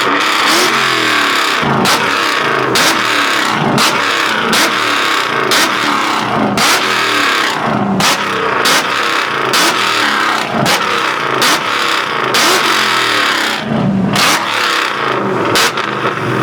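Loud car engine revving again and again, with frequent sharp cracks through it.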